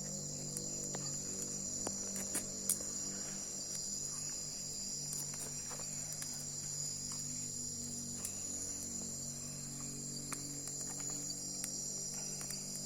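Night insects, crickets, chirring in a steady high chorus, over a low steady drone, with scattered small crackles and two sharper pops about two and a half seconds in.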